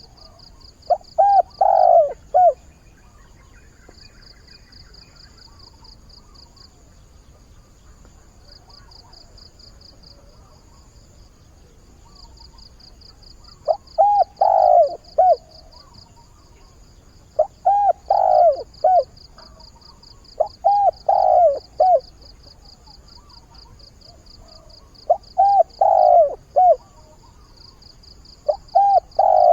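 Spotted dove cooing: a phrase of several short low coos, repeated six times with gaps of a few seconds; a caged decoy bird calling to draw wild doves. A faint high rapid pulsing comes and goes behind it.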